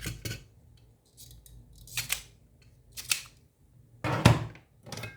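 A few sharp clicks and snips from small tools and the Xbox controller's plastic parts being handled, with a louder clatter about four seconds in.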